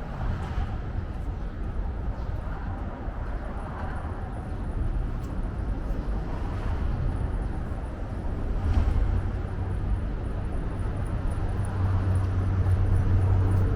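City outdoor ambience: a steady low rumble of traffic that grows louder near the end, with faint voices mixed in.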